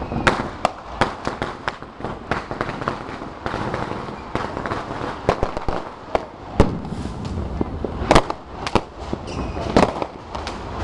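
Firecrackers and fireworks going off all around in rapid, irregular bangs and crackles, with a few louder, closer blasts in the second half.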